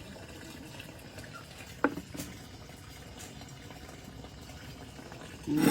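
Faint steady hiss of campfire embers, with a couple of small knocks about two seconds in. A much louder noise starts just before the end.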